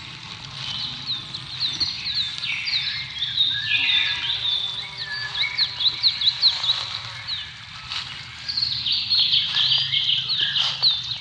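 Several birds chirping and singing at once: a dense, overlapping run of short high notes that flick up and down in pitch. A faint steady low hum sits underneath.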